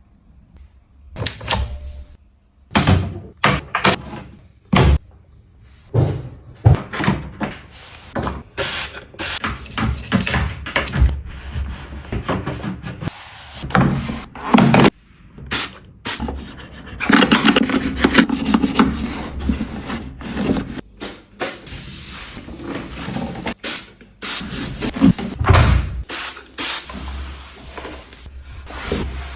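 Hands cleaning a washing machine: irregular clicks and knocks of parts and items being handled, mixed with stretches of scrubbing and rubbing, the longest a few seconds of steady scrubbing about halfway through.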